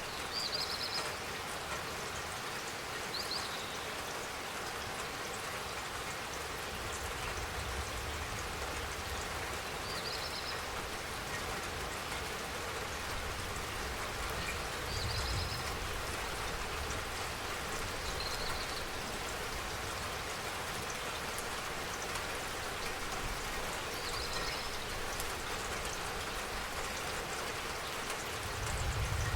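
Steady rainfall, an even hiss of drops, with a short high chirp every few seconds.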